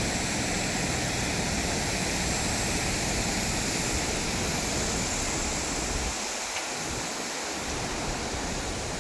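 Floodwater of a rain-swollen stream rushing past in a steady roar. The lowest rumble drops away for a moment about six seconds in.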